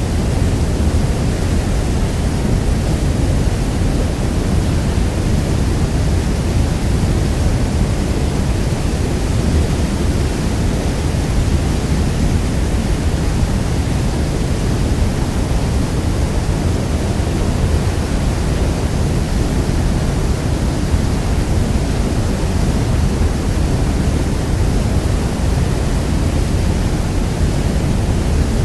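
Niagara Falls: a great mass of water falling, heard as a steady, deep rushing noise with no breaks or changes.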